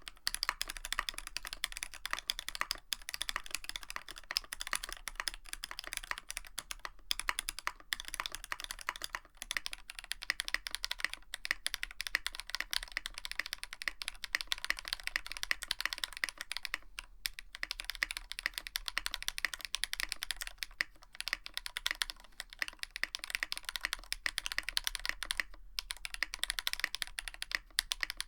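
Continuous rapid typing on a Tofu65 mechanical keyboard with a brass plate and PBT keycaps. It starts on C3 Tangerine switches with only the top housing lubed, then about ten seconds in changes to lubed Zaku switches.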